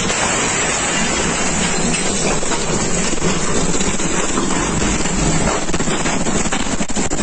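Tornado winds blowing hard with rain, a loud steady rush buffeting the phone's microphone, with a few sharp knocks near the end.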